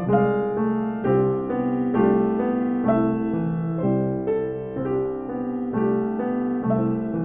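Piano playing, a steady stream of notes with several sounding together.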